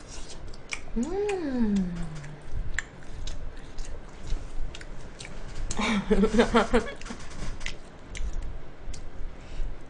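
A woman chewing grilled chicken heart skewer meat, with scattered small wet mouth clicks. Two short closed-mouth hums come through: one rising then falling in pitch about a second in, and a steadier one around six seconds.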